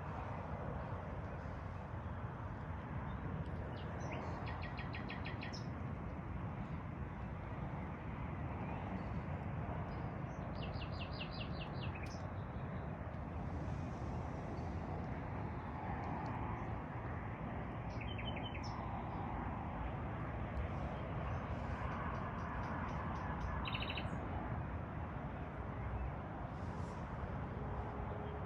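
Small birds calling with short, rapid trills, about four bursts spread through the stretch, over a steady low background rush.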